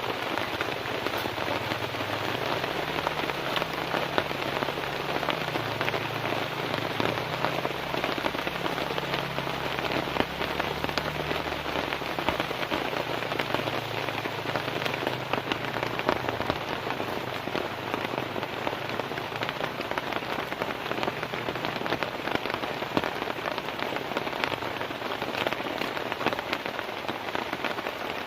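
Heavy, unbroken rain falling on a tent, dense drops hitting at a steady level, with a faint low rumble underneath during the first half.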